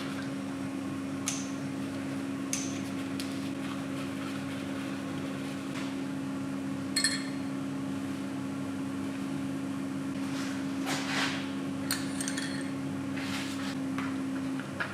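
A steady electric motor hum, with a few light metallic clinks and scrapes of parts or tools being handled; one clink about seven seconds in rings briefly.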